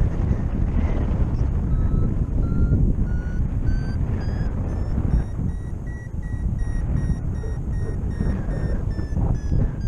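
Paragliding variometer beeping in short repeated pips, starting about two seconds in. The pitch rises over the first half, then eases slightly: the climb tone of the glider going up in a thermal. Wind rushes over the microphone throughout.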